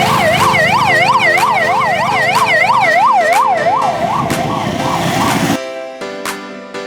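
An emergency siren in a fast yelp, its pitch sweeping up and down about three times a second over steady musical notes. The siren cuts off suddenly about five and a half seconds in, leaving music with plucked notes.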